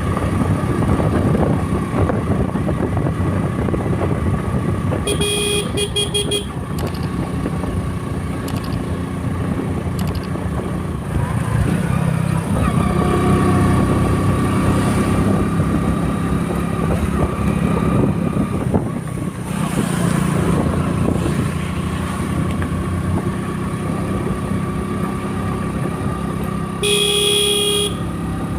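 Motorcycle engine running steadily while riding, with a vehicle horn sounding briefly twice, about five seconds in and again near the end.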